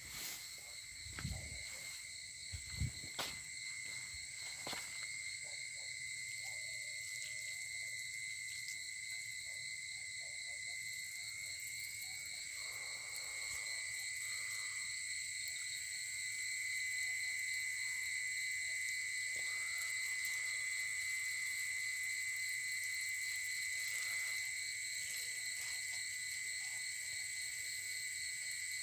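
A night insect trilling steadily, one unbroken high-pitched tone with a faint pulse, running throughout. A few dull knocks in the first few seconds, as of the phone being handled.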